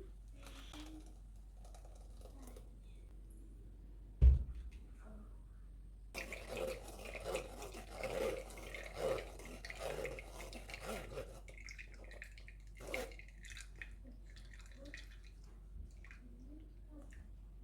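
A single sharp knock, then about five seconds of splashing, trickling liquid sounds, followed by a few light clicks of kitchen handling.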